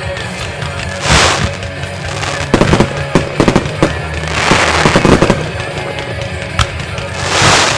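Fireworks display: aerial shells bursting in clusters of sharp bangs, with three long hissing swells about a second in, halfway through and near the end.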